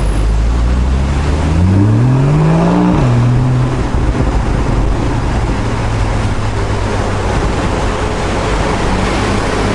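Porsche 981 GTS's flat-six engine accelerating in Sport Plus mode: the engine note climbs steeply for about two seconds, drops at an upshift about three seconds in, then holds steady. Heavy wind and road noise run underneath, heard from inside the open-top cabin.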